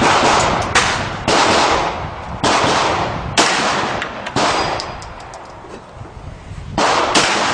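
Handgun shots fired in a string, about seven shots at uneven spacing, each sharp crack followed by a long echo that fades out.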